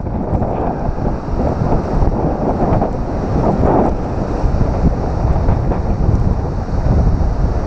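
Strong wind buffeting the microphone over ocean surf washing against shoreline rocks.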